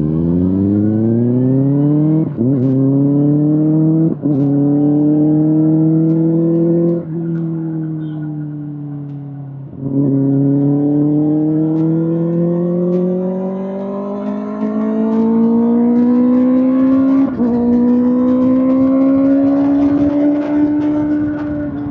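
Kawasaki ZX-6R inline-four sport bike running through an SC-Project SC1-R aftermarket exhaust, accelerating up through the gears. Its note climbs in pitch and breaks briefly at each upshift, about five times. It eases off for a few seconds partway through, then pulls again.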